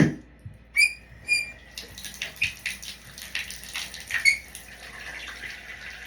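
A thump, two short high-pitched squeaks, then water starts running from a bath or shower tap about two seconds in, splashing steadily.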